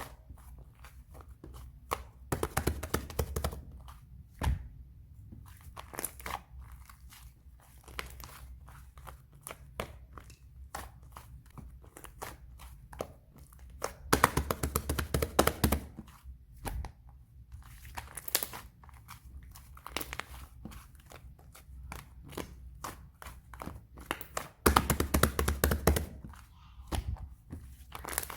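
Close-up crinkling and crunching handling sounds: three louder bursts of rapid crackles about two seconds in, in the middle and near the end, with scattered quieter clicks and taps between.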